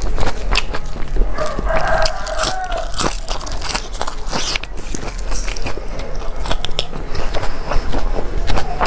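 A person chewing a mouthful of rice and fresh raw greens with many sharp, wet crunches and bites.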